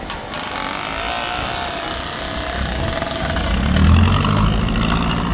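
Heavy vehicle's diesel engine running and revving up, loudest about four seconds in.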